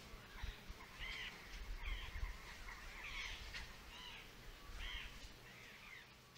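A bird calling over and over in short, arched notes, about one or two a second, with a low rumble underneath.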